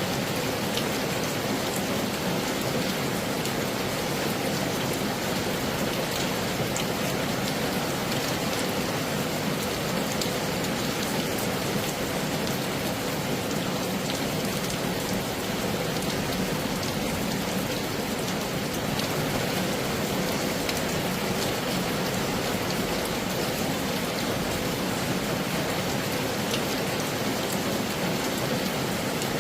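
Heavy rain falling steadily, with scattered single drops heard as small ticks over the even hiss.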